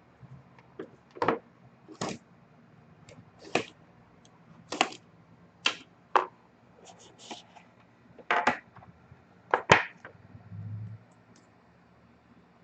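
A trading card box and its packaging being opened and handled by hand: about a dozen sharp, irregular clicks and rustles.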